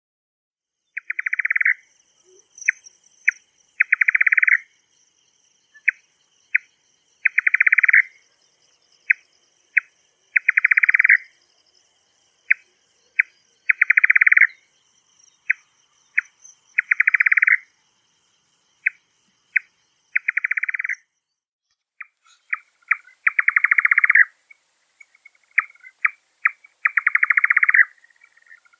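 Nightjar calling: a repeated series of rapidly pulsed notes, a longer note followed by two short ones, the group recurring about every three seconds, over a faint steady high insect trill. About three quarters of the way through, a different recording takes over, with faster, denser notes.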